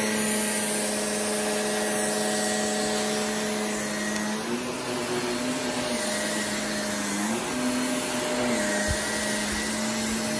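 Vacuum cleaner running steadily while pre-vacuuming a rug, pulling out pet hair and dry soil. Its motor hum rises a little in pitch twice and settles back.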